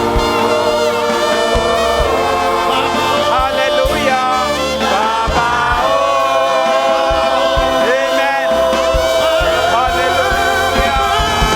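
Gospel worship music: a group of voices singing together over a steady low drum beat.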